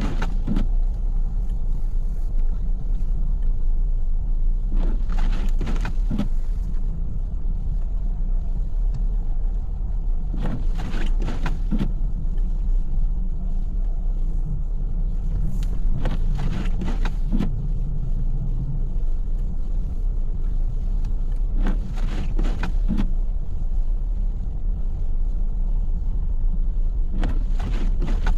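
A car driving through snow, with a steady low road and engine rumble. About every five and a half seconds comes a brief swish, in keeping with windshield wipers on an intermittent setting.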